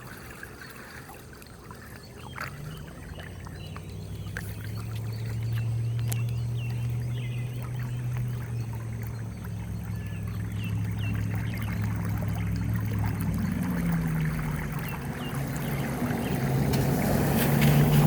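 Floodwater swirling down a clogged street storm-drain grate in a whirlpool: a low humming gurgle that comes in after a few seconds and grows louder toward the end.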